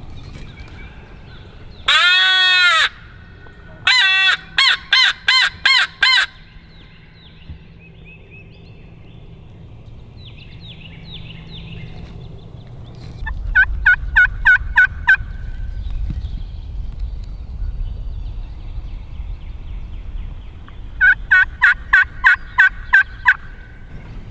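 Loud bird-like calls in runs: one long call, then about seven quick short calls, and two more runs of short calls later, one about 13 seconds in and one near the end. This is typical of a turkey hunter's locator call blown to make a gobbler answer.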